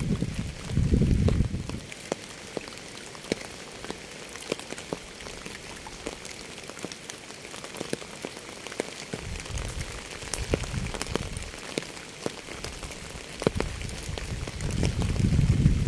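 Rain falling, with many separate drops tapping sharply close by over a steady hiss. A deep low swell rises and fades three times: about a second in, around ten seconds in, and near the end.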